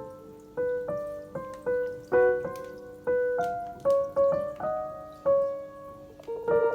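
Background piano music: a slow melody of single notes, each struck and fading, about two a second.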